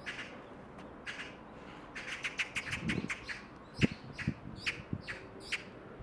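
Small birds chirping: a quick series of short, high chirps, about two to three a second from about two seconds in, over a faint steady hiss. A few soft low thumps come in the middle.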